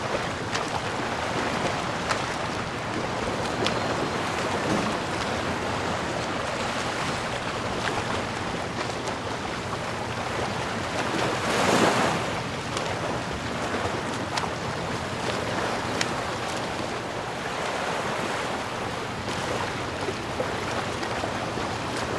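Ocean waves washing in steadily, with one larger wave swelling and breaking about halfway through.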